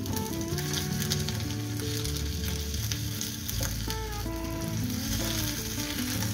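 Chicken-and-egg kabab frying in hot oil in a nonstick pan, a steady sizzle, with a plastic spatula working under it as it is turned over.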